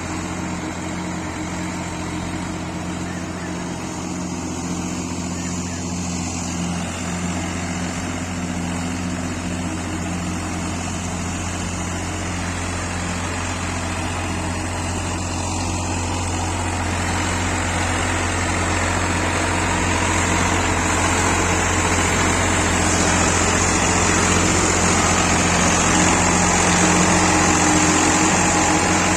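Tractor diesel engine running steadily, slowly getting louder over the second half.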